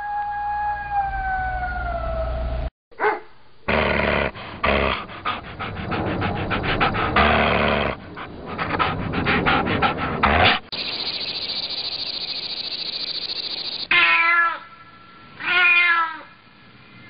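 Animal calls: a long pitched howl that slowly falls at the start, then a stretch of rough, noisy sounds, a steady hiss for about three seconds, and two short meow-like calls near the end.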